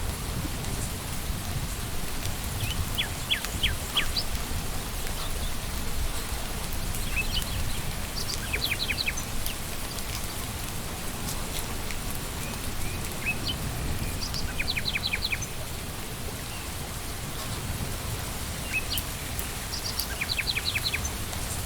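Steady rain falling on leaves and ground, with a deep low rumble beneath and scattered drops ticking. A bird sings a short phrase of four or five quick notes, repeated about every six seconds.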